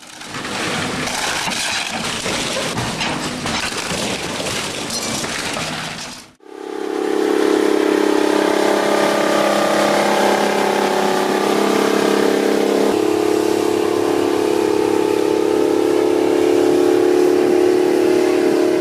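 Heavy machinery running. First comes a rough, crackling stretch of mechanical noise. After a cut about six seconds in, it gives way to a steady, droning engine hum that holds its pitch and deepens slightly about thirteen seconds in.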